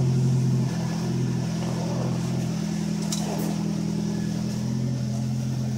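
Turbocharged Toyota Celica ZZT231's 2ZZ-GE four-cylinder engine running steadily at a constant pitch, with a slight drop in level about a second in.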